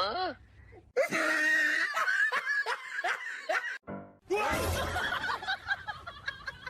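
People laughing in quick repeated bursts, in two stretches split by a short break near the middle, after a brief rising-and-falling cry at the very start.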